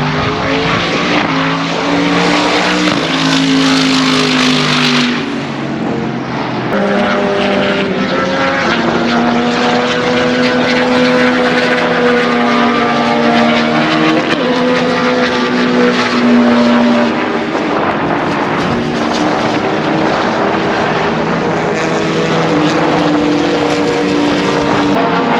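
Race car engines running on a track, several engine notes overlapping and shifting in pitch as the cars pass and change gear.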